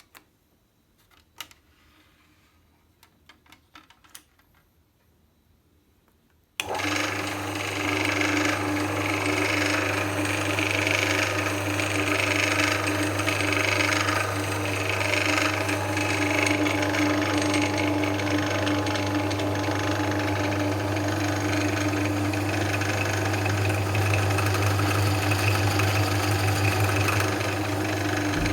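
Einhell TE-BD 750 E drill press, a 750 W bench drill with a mechanical speed variator, starting abruptly about six and a half seconds in and then running steadily with a deep hum. A few faint clicks come before it starts.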